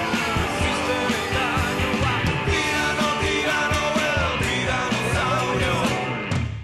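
Punk rock song by a band, with singing over drums and guitars; the music drops out briefly right at the end.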